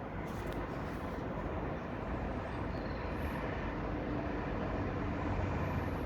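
Steady low background rumble, with a faint hum through the middle.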